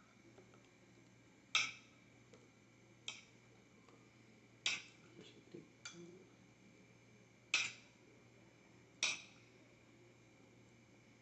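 Spoon clinking against a dish while filling is spooned out: six sharp knocks, about one every second and a half.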